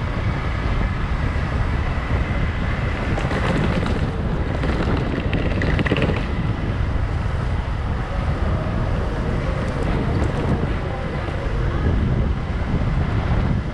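Wind buffeting the microphone on a moving motorcycle, a steady low rumble with the bike's running and road noise beneath it.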